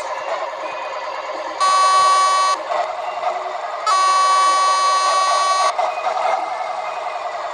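Two long steady beeps, the first about a second long and the second nearly two, over the continuous running noise of a truck.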